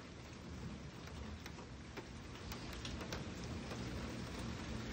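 Rain falling: a steady hiss with scattered drops ticking close by.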